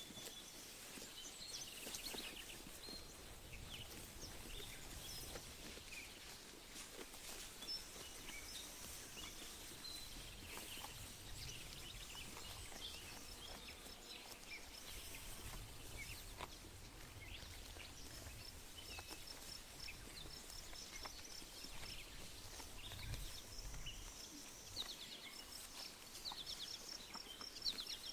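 Pasture ambience: several songbirds chirping and trilling, one repeating a rapid string of high notes in the second half, over a low wind rumble. Faint scattered ticks and rustles come through, fitting sheep tearing and chewing grass.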